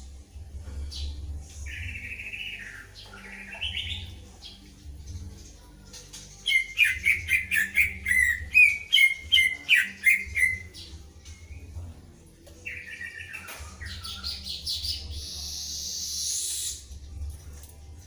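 Recorded songs of a cucak ijo (greater green leafbird) and a murai medan (white-rumped shama) answering each other. A fast run of sharp whistled notes in the middle is set between longer warbled phrases, over a low hum.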